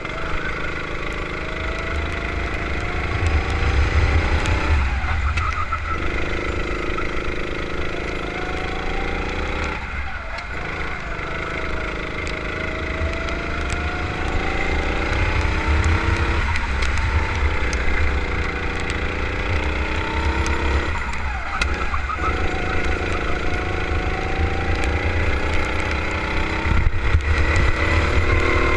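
Kart engine on a lap: it revs up steadily, then cuts off sharply as the driver lifts off, about six times.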